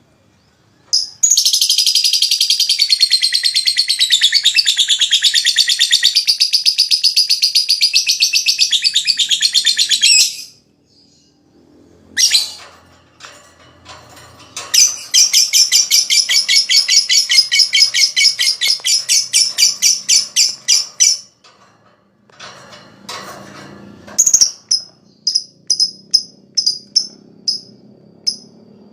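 Lovebird ngekek: a long, rapid, high chattering trill of about nine seconds, then a short call, then a second rapid trill of about six seconds. After that come short separate chirps, one or two a second.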